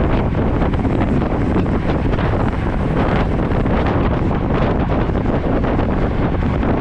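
Loud, steady wind buffeting the microphone of a camera riding along on a road bike.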